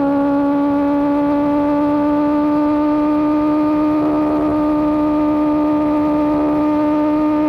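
Motorcycle engine breathing through an Austin Racing GP1R exhaust, held at steady high revs while riding, its pitch creeping slowly upward.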